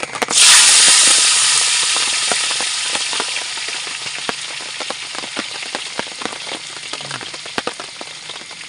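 Food dropped into hot cooking oil: a sudden loud burst of sizzling just after the start, dying down slowly to steady crackling frying.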